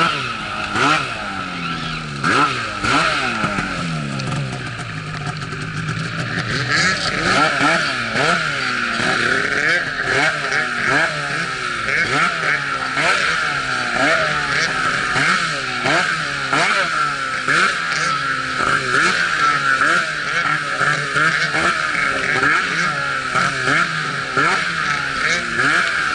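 Arctic Cat snowmobile engine revving up and down over and over, about once a second through the second half, with a steady high whine running underneath.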